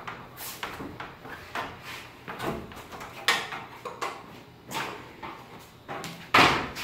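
Irregular metallic clicks and knocks of steel winding bars being worked in a garage door torsion spring's winding cone while the spring is wound another quarter turn, with one louder knock near the end.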